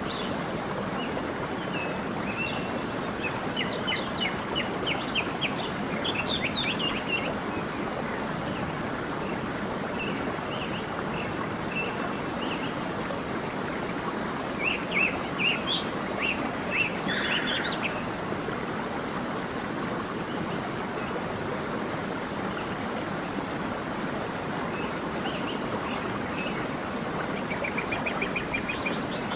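A stream flowing steadily, with small songbirds chirping over it: bursts of quick chirps a few seconds in and again around the middle, and a rapid trill near the end.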